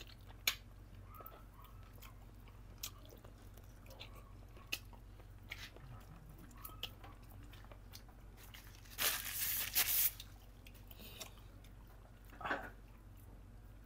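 Close-up chewing and biting of boiled chicken meat, with small wet mouth clicks. There is a louder burst of noise lasting about a second about nine seconds in, and a shorter one near the end.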